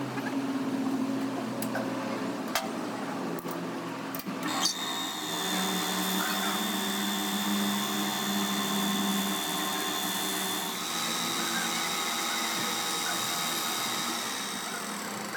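A power tool starts about a third of the way in and runs with a steady whine, after a few seconds of workshop clatter and clicks.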